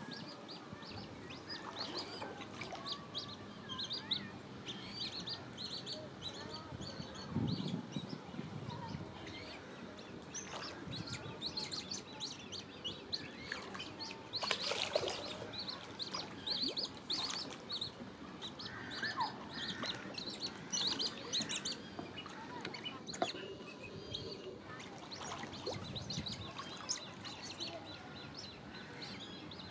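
Eurasian coots calling: many short, high chirps in quick series, with a louder, fuller call about halfway through.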